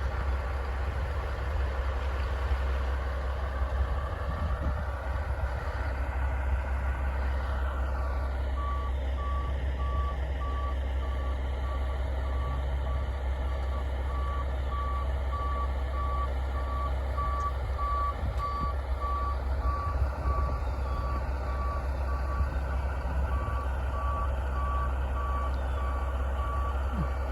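Dump truck's reversing alarm beeping at a steady even pace, starting about a third of the way in, over the low rumble of the truck's engine.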